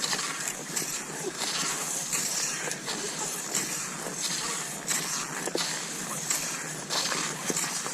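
Cross-country skis sliding over snow: a steady hissing glide broken by a crisp crunch every half second to a second as the skier strides.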